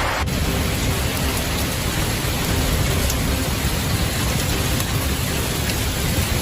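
Steady rain falling: an even noise with a low rumble beneath it. The sound changes abruptly a moment after it begins, then holds steady.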